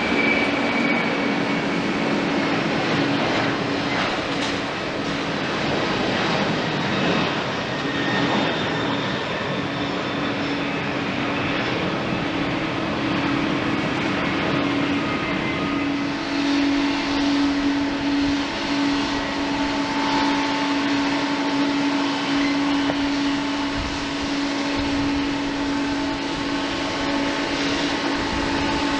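Jet airliner engines running steadily: a broad rush with a constant low hum and fainter steady whining tones above it.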